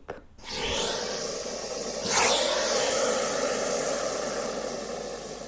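Snake hissing: a long breathy hiss that swells about two seconds in and then slowly fades.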